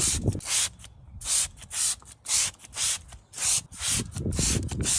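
Hand trigger spray bottle squirting cleaning solution onto car bodywork: a quick run of short hissing squirts, about two a second.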